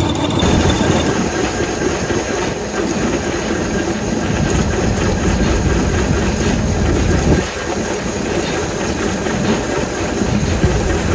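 Loud, steady clatter and rumble of heavy factory machinery, dipping briefly about seven seconds in.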